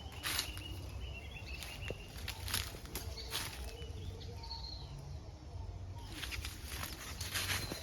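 Footsteps through forest undergrowth and leaf litter, a step every second or so, pausing in the middle and resuming near the end, with faint short high bird calls behind.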